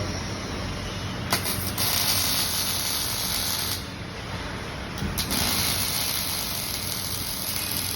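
Welding robot's arc running in two bursts of crackling hiss, each starting with a sharp crack: the first from a little over a second in until nearly four seconds, the second from about five seconds in. A steady machine hum lies underneath.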